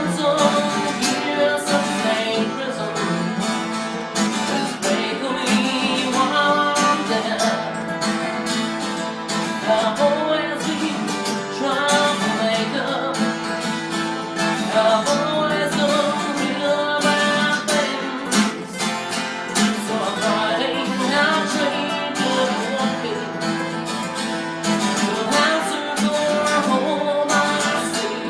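A song: a singing voice over strummed acoustic guitar, playing steadily throughout.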